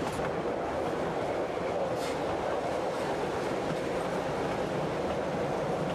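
Steady running noise of a narrow-gauge passenger train rolling along the track, heard from aboard a car, with a faint click from the wheels over the rails at the start and again about two seconds in.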